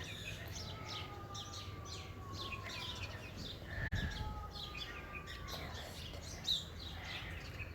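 Several small birds chirping and twittering in short scattered calls over a low background rumble, with a slow falling whistle twice.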